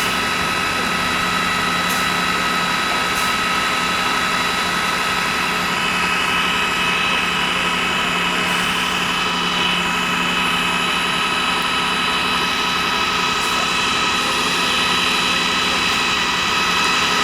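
Steady engine-like drone: several held tones over a dense, even hiss, unchanging throughout.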